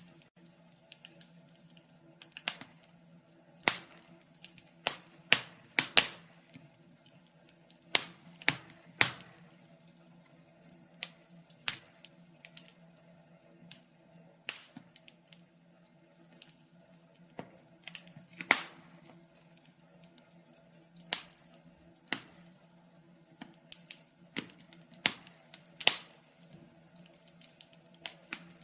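Wood fire crackling in a fireplace: sharp, irregular pops and snaps, one to three a second, over a faint steady low hum.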